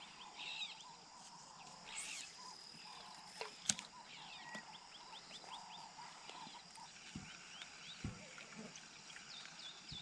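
Quiet riverside ambience with faint small bird chirps: a quick run of short calls about a third of the way in and another run near the end. One sharp click stands out a few seconds in.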